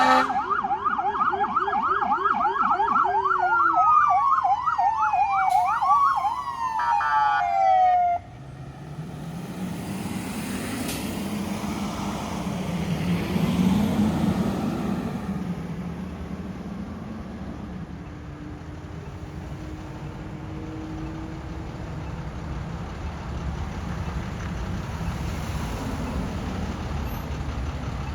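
Electronic sirens on fire-rescue apparatus, two at once, cycling quickly up and down in a fast yelp, winding down in falling wails and cutting off suddenly about eight seconds in. Then the heavy trucks' engine and road rumble, swelling briefly and easing off.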